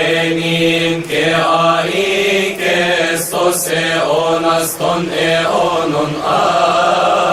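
A man's voice chanting a prayer melody in long held notes that bend slowly in pitch, in the style of Coptic liturgical chant.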